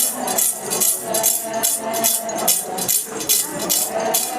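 Rhythmic metallic jingling of a yoksha, the Ponung leader's sword hung with metal rings, shaken in time at about three strokes a second. Voices sing faintly beneath it between the chanted lines.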